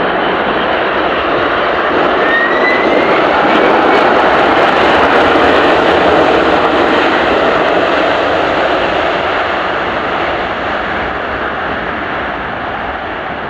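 Jet airliner's engines passing close, swelling to a peak about five seconds in and then slowly fading as it moves away.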